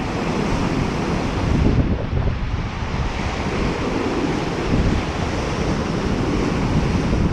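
Wind buffeting the microphone over a steady rush of waves breaking on the Lake Superior shore.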